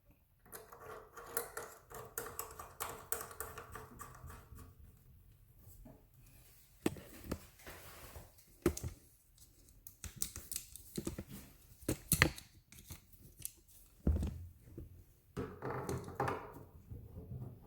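Scattered small metallic clicks and scrapes as a faucet cartridge's retaining nut is fitted and threaded down to hold the cartridge in place.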